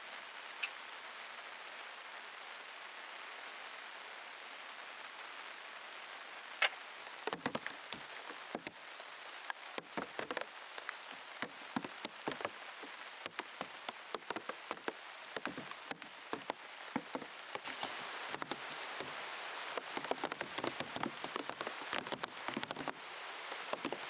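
Steady rain hiss, with raindrops tapping sharply on the plastic sheet covering the camera. A couple of single taps come early on, and from about a third of the way in the taps become frequent and irregular.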